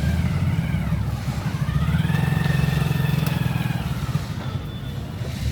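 Motorcycle and other vehicle engines running in stalled traffic, a steady low engine sound throughout.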